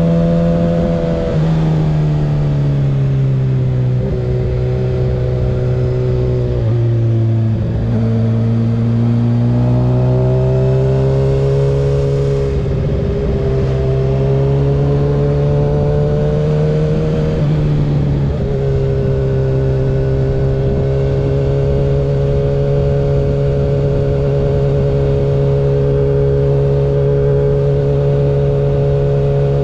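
Kawasaki ZX-6R 636 inline-four with a Graves aftermarket exhaust, running under way. Its pitch drops and climbs several times over the first twenty seconds with throttle and gear changes, then holds steady as it cruises.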